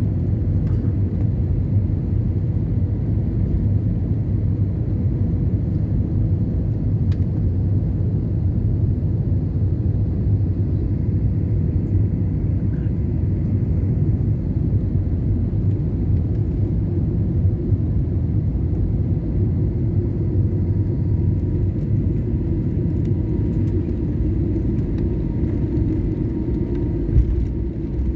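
Landing airplane's engines and airflow as a steady low rumble, with a faint steady whine above it.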